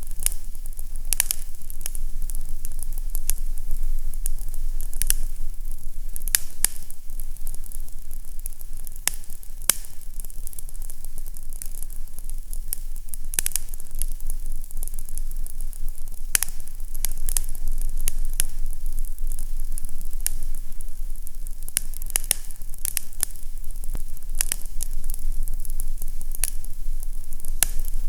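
Fireplace fire crackling, with irregular sharp pops over a steady hiss and a low rumble.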